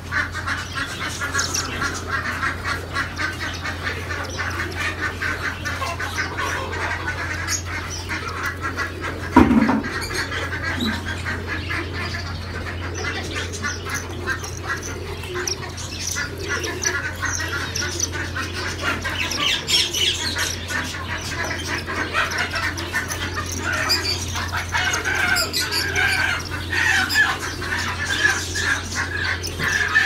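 Many caged birds calling and chirping at once, with a dense run of short overlapping calls over a steady low hum. A single loud thump comes about nine and a half seconds in.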